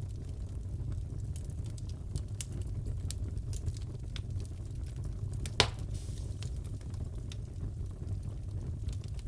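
Wood fire crackling in a fireplace: a steady low rumble with scattered small crackles, and one louder pop a little past halfway.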